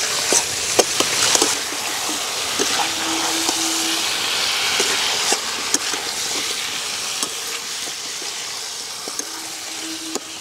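Chicken and potato curry sizzling in oil in a kadai as it is fried down in its spices, with a metal spatula scraping and clicking against the pan as it is stirred. The clicks are thicker in the first half, and the sizzle eases a little near the end.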